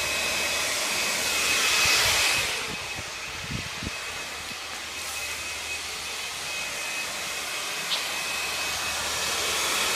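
Hand-held hair dryer running steadily, blowing hot air onto a garage door safety sensor, with a thin high whine over the rush of air. The airflow is loudest around two seconds in, then drops and dulls, with a few faint ticks.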